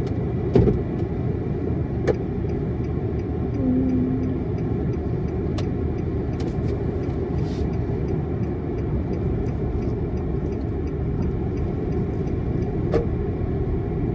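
Steady low rumble of a car being driven, with a few faint clicks.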